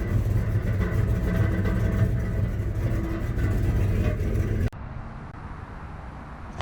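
Pickup truck's V8 engine running steadily with a low rumble, cut off abruptly about two-thirds of the way in, leaving a much quieter background.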